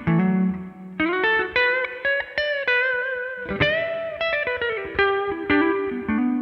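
Yamaha RS620 electric guitar played through a Greer Amps Lightspeed overdrive pedal: a picked single-note lead line with string bends, ending on a sustained ringing chord.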